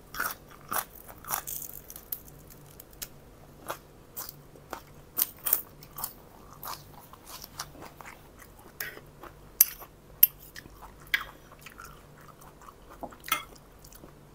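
A person biting into and chewing raw spring onion stalks, eaten as lalapan, with irregular crisp crunches.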